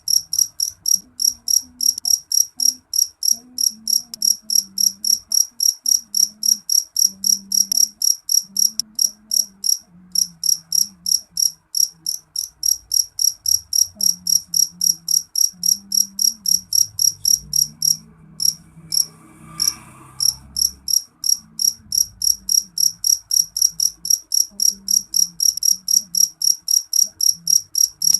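A cricket chirping in a steady, even rhythm of short high-pitched chirps, about three a second, pausing briefly twice.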